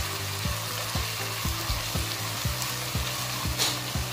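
Onion and ginger-garlic masala sizzling in oil in a ceramic-coated pan while a wooden spatula stirs it. Low background music keeps a steady beat of about two thumps a second underneath.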